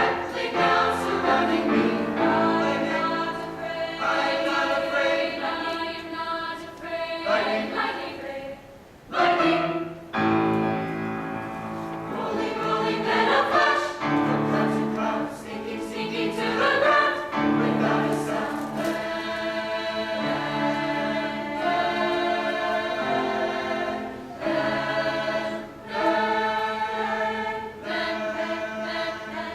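A choir singing a piece in several parts, with held chords broken by brief pauses.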